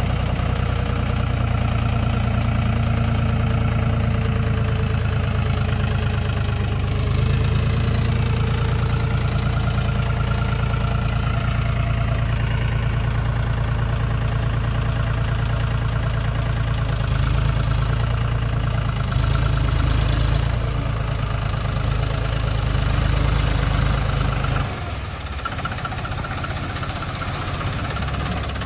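Tractor diesel engine running steadily with a deep, knocking rumble. About 25 seconds in it eases off and gets quieter.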